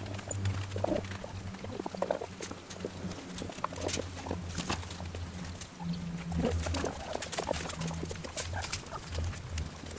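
Chickens clucking in short low calls, with scattered small clicks and taps over a steady low hum.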